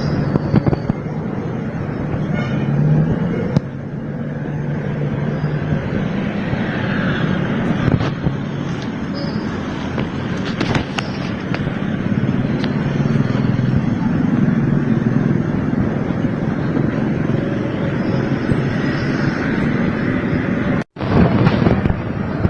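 Steady street traffic noise with a low engine hum, and occasional sharp metallic clicks and knocks.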